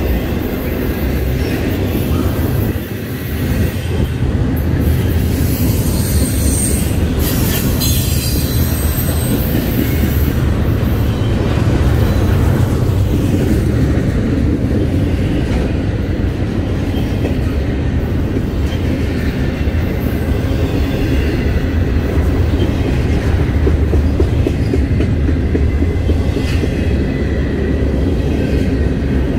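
Intermodal freight train cars (trailers on flatcars and double-stack container well cars) rolling past, a steady rumble of wheels on rail and clatter over the joints. A brief high wheel squeal rises about seven seconds in.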